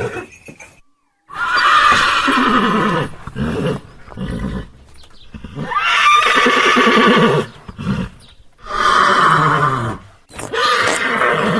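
Horses neighing: about four loud whinnies in a row, each sliding down in pitch.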